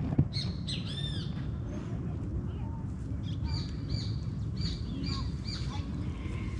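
Birds calling: a quick cluster of arched, high notes about a second in, then a run of about five short, evenly spaced high notes a few seconds later, over a steady low rumble. A single sharp knock comes just after the start.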